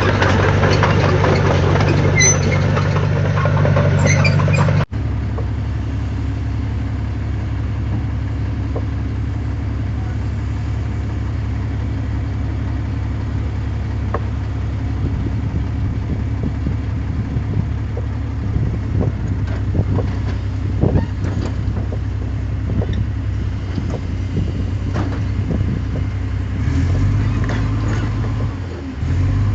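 Heavy diesel engine of earthmoving equipment running steadily. About five seconds in the sound cuts abruptly to another steady engine note with scattered knocks and clanks, and near the end the engine pitch shifts up briefly.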